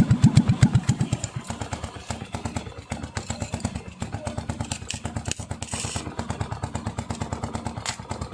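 Small motorcycle engine running through a shared exhaust, with an even, rapid exhaust beat. It is louder for about the first second, then settles into a steady idle.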